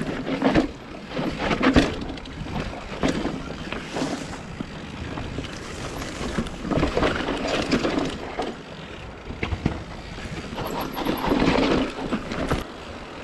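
Mountain bike riding down a steep, rough dirt and rock trail: tyres skidding and crunching over the ground, with repeated knocks and rattles from the bike, the loudest about half a second and just under two seconds in. Wind rushes over the microphone throughout.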